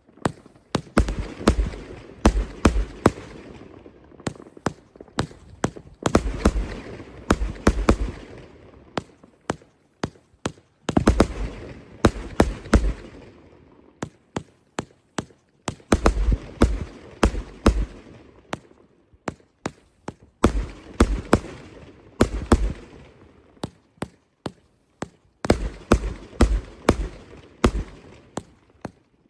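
Fireworks going off in repeated volleys: a cluster of sharp bangs with a crackling hiss about every five seconds.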